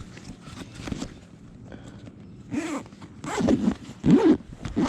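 A zipper being pulled in several quick strokes, closing a bag or pocket, with the loudest pulls in the second half.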